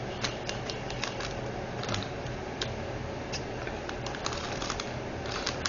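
Light, irregular small clicks and taps, about two or three a second, from handling diamond-painting drills and their small plastic storage containers, over a steady low hum.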